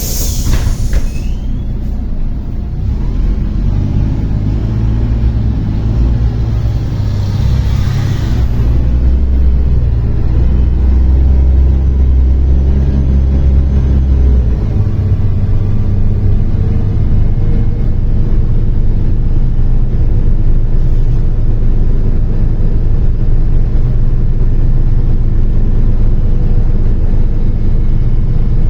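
Diesel engine of a MAZ-103 city bus heard from inside the passenger cabin, pulling and accelerating with a low drone that steps in pitch a few times as the gearbox shifts. A short hiss of air comes about eight seconds in.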